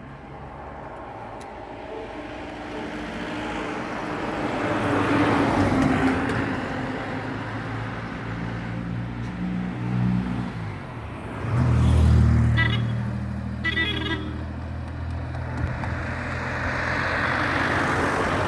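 Motor vehicle engines on the road, rising and falling as vehicles pass, with a louder deep engine going by about two-thirds of the way through and two short horn toots.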